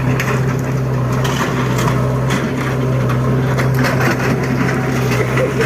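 Bulldozer engine running steadily while the machine crushes a building, with irregular cracks and crunches of breaking wood and masonry over the engine's hum.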